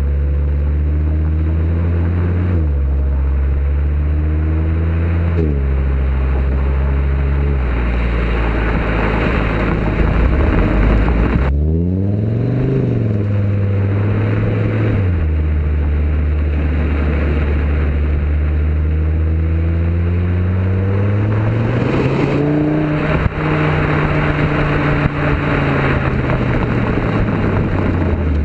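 Audi TT RS turbocharged five-cylinder engine through a decatted sports exhaust, pulling hard: the revs climb and drop sharply at two quick upshifts in the first few seconds. The revs then rise and fall, hold steady for a stretch, and climb again near the end.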